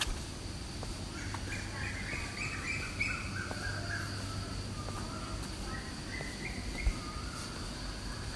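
Small birds chirping in short phrases, busiest in the first half, over a steady high hum and low background rumble, with one short knock near the end.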